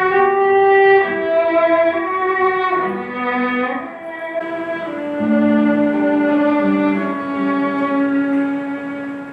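Slow melody on a bowed string instrument, long held notes, moving to a lower register about halfway through and growing quieter near the end.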